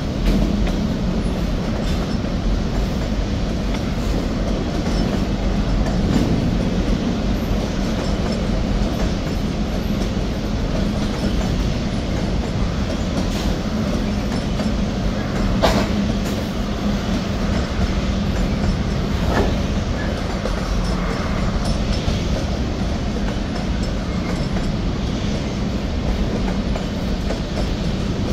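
Freight cars of a CSX manifest train rolling past: a steady rumble of steel wheels on rail, with a couple of sharp clicks about halfway through.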